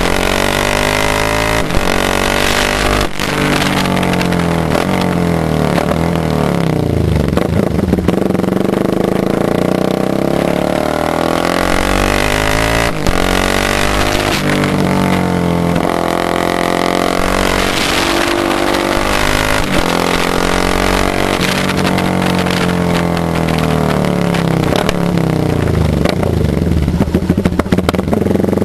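Motorcycle engine running loudly, its pitch rising and falling over several seconds at a time as the revs go up and down, with a few sharp clicks.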